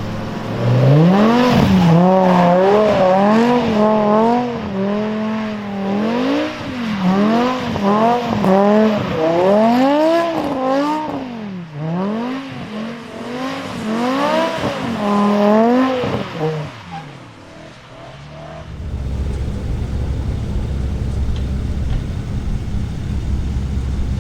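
A BMW engine revving hard, its pitch climbing and falling again over and over for about fifteen seconds. It then drops away to a low, steady rumble.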